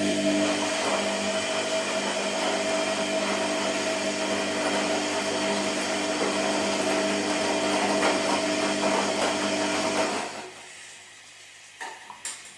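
Washing machine running: a steady motor hum with noise over it that stops about ten seconds in, followed by a few short clicks near the end.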